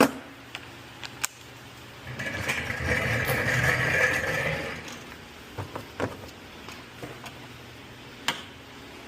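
Impact wrench running for about three seconds to loosen a 14 mm suspension bolt, with a few sharp metallic clicks of tools before and after.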